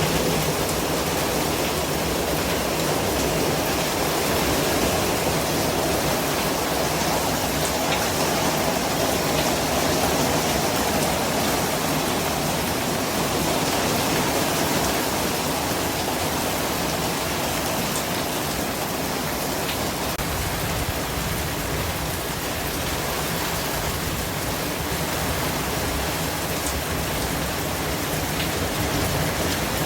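Steady, even hiss of a white-noise track, unchanging throughout, with a few faint ticks scattered through it.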